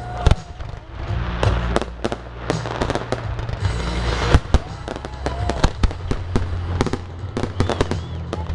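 Fireworks display: a dense run of aerial shell bursts and crackling stars, many sharp bangs in quick succession.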